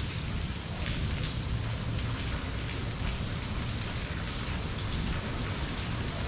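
Steady rain falling: an even hiss with scattered brief drop hits standing out, over a constant low rumble.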